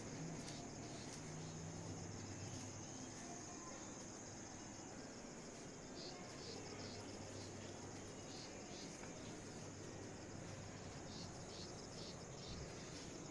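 Crickets chirring: a steady high trill throughout, with trains of quick chirps coming in about halfway through and again near the end, over a faint low hum.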